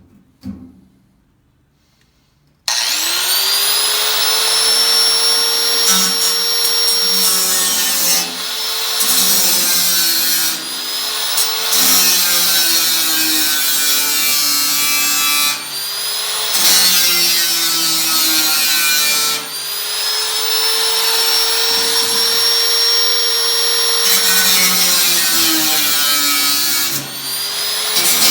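Electric power tool working on a sheet-steel 18-litre tin can: about three seconds in its motor spins up with a rising whine, then runs loud under load, easing off and spinning up again every few seconds.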